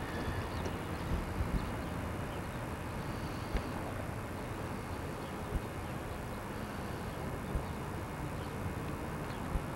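Southern Pacific freight train's cars rolling past on the rails: a steady rumble of wheels on track with a short clack about every two seconds.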